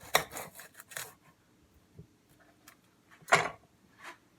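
Metal kitchen utensils handled and clinking: a quick flurry of clicks and rattles, a few light ticks, then one louder clatter about three seconds in, as a sharper knife is fetched.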